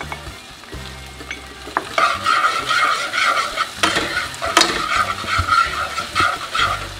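Chopped onions and tomatoes sizzling in hot olive oil in a frying pan while a metal spoon stirs and scrapes them. The stirring gets louder about two seconds in, with a few sharp clicks of the spoon against the pan.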